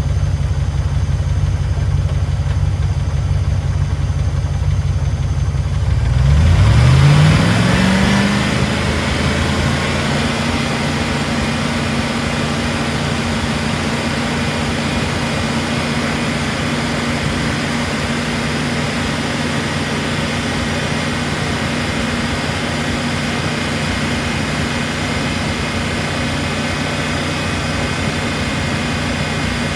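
P38 Range Rover's engine idling, then revved up about six seconds in and held at a steady raised speed. It is running on Rislone added to the oil to free a sticking valve or lifter, and its tick is going away.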